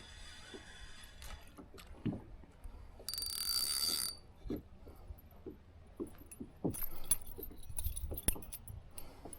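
A fishing cast from a kayak: line whizzes off the reel for about a second, with a thin whistle in it. Around it come scattered light knocks and clicks of tackle.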